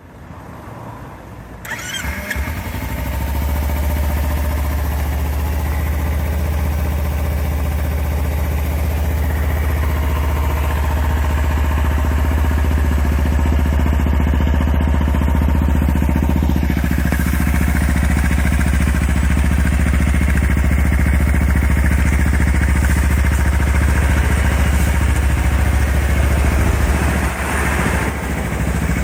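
Kawasaki Ninja 250 parallel-twin engine breathing through a BEAMS stainless slip-on muffler, starting up about two seconds in and then idling steadily with a deep exhaust note.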